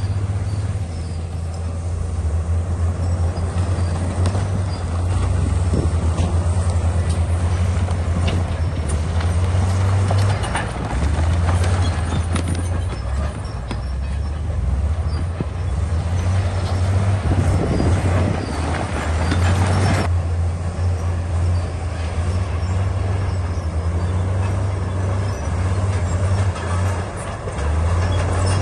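Heavy bulldozer diesel engine running steadily under load, with scattered clanks.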